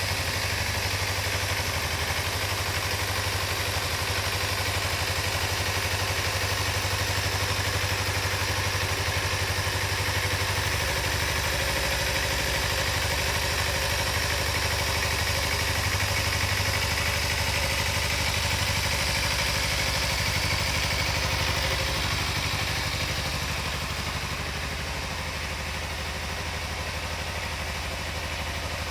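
Kawasaki Ninja 250 (EX250L) 249 cc parallel-twin engine idling steadily, going a little quieter about two-thirds of the way through.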